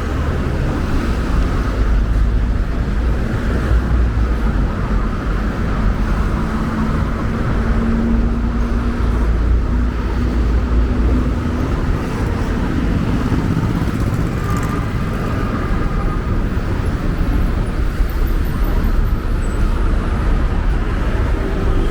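Road traffic: cars and other vehicles running past with a steady low rumble, one engine tone standing out for a few seconds midway.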